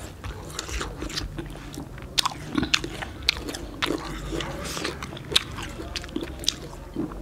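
Two people eating fresh fruit salad of strawberries, apple pieces, grapes and pomegranate seeds: close-up biting and chewing, with irregular sharp clicks several times a second.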